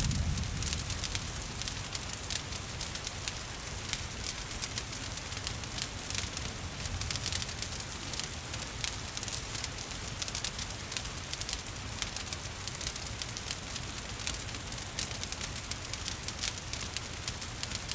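Wood fire crackling with frequent sharp irregular pops, over a steady hiss of gentle rain.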